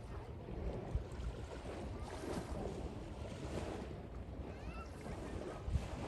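Sea waves washing, with wind buffeting the microphone in low rumbling gusts.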